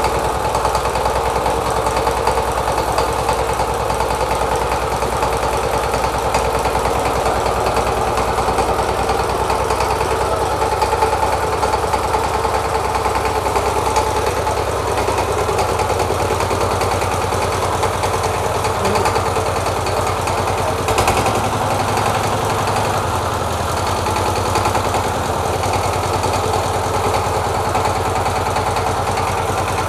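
Reconditioned Sifang 12 hp single-cylinder diesel engine running steadily at idle, being run so its sound and condition can be judged.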